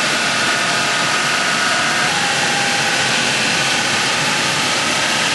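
Wood sawdust machine (hammer mill) running steadily, a loud, even rushing noise with a faint whine.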